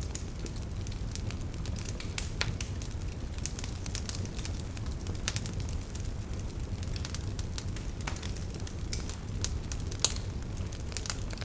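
Wood campfire crackling: irregular sharp pops and snaps of burning firewood over a low steady rumble, with one louder pop about ten seconds in.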